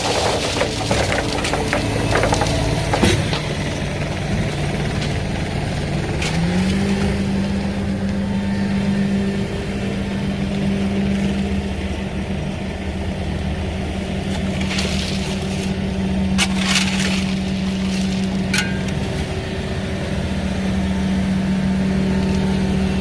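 Excavator's diesel engine running under load, its pitch rising about six seconds in and then holding steady, with a few sharp knocks and scrapes of stone and gravel.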